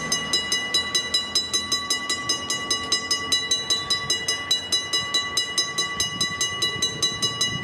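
Western Railroad Supply (WRRS) mechanical railroad crossing bell ringing, its clapper striking the gong about five times a second in an even rhythm, each strike leaving a clear ringing tone.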